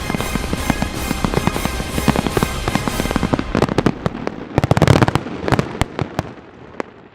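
Fireworks show: dense crackling and bangs of fireworks going off, thinning out after about three seconds, with a last loud cluster of bursts about five seconds in before fading away. Music plays underneath.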